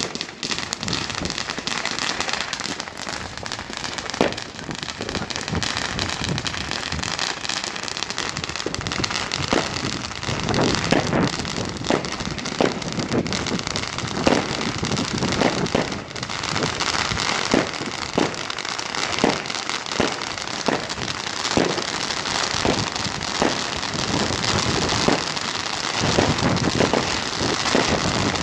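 New Year's fireworks display of category II to IV fireworks: continuous dense crackling with frequent sharp bangs, the bangs coming more often from about ten seconds in.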